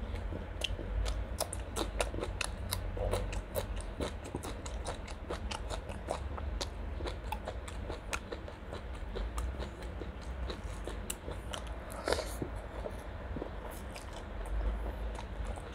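Close-miked chewing and biting of chicken liver and gizzard curry and raw greens: many quick wet mouth clicks and crunches, with one louder crunch about twelve seconds in.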